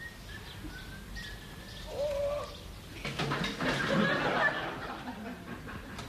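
Birds singing in leafy countryside, with thin whistled notes and a short, lower call about two seconds in. From about three seconds in comes a louder, noisy rattling stretch lasting over a second.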